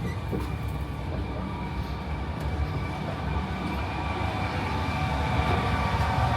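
Electric train running: a steady low rumble with a whine of several steady tones, growing louder toward the end.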